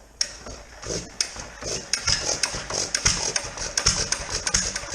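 1929 John Deere 1.5 hp Type E single-cylinder hit-and-miss engine being hand-cranked by its flywheel to start on full choke. Irregular sharp knocks and clacks come closer together and grow louder from about two seconds in.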